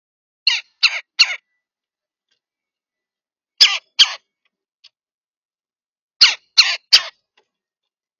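A bird giving short harsh calls in three bunches: three calls, then two, then three.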